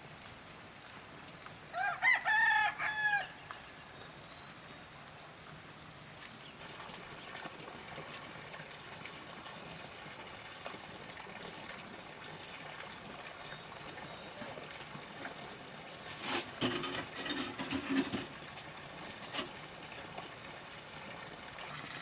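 A rooster crowing once, about two seconds in, over a steady faint background. Later a shorter, lower run of clucks and clicks comes about three-quarters of the way through.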